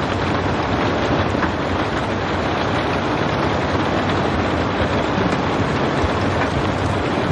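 Steady rain falling: a dense, even patter with no thunder.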